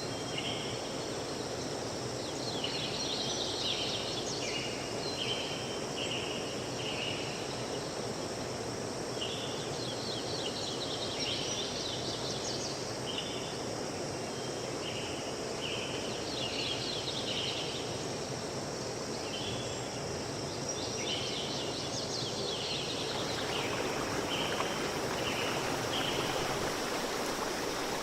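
Natural outdoor ambience: a steady rushing like flowing water, with some creature calling in repeated bouts of short, high chirps every few seconds. The rushing grows fuller near the end.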